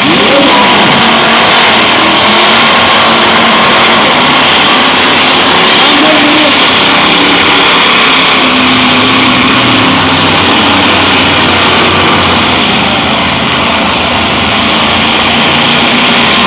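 Several eight-cylinder demolition derby cars running and revving at once, a loud, steady engine din.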